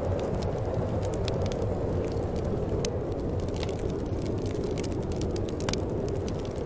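Steady low wind rumble with a fire crackling over it: irregular small pops and snaps.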